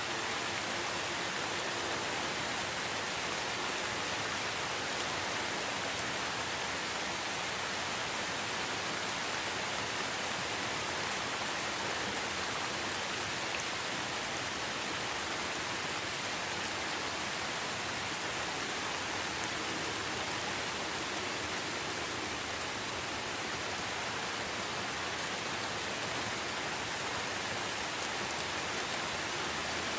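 Steady, heavy rainfall, an even hiss with no change in level.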